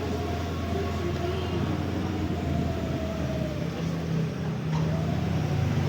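A vehicle running with a steady low rumble; its tone dips and rises again about four seconds in.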